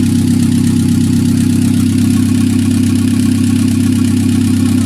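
Two-litre engine of a Chevrolet Niva idling steadily, freshly assembled and running without tuning.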